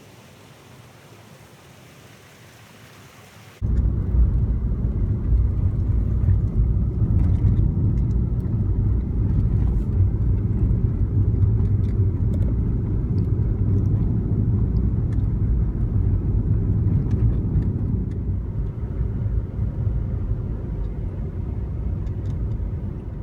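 Wind buffeting the microphone outdoors: a loud low rumble that starts abruptly a few seconds in and carries on steadily, easing a little near the end, with faint light ticks over it.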